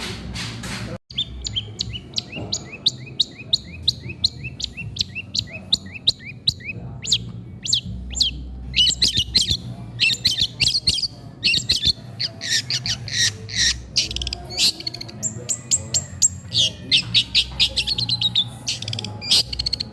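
Long-tailed shrike (cendet) singing: after a brief break about a second in, fast runs of short, repeated chirping notes, several a second, turning into denser, more varied phrases later on.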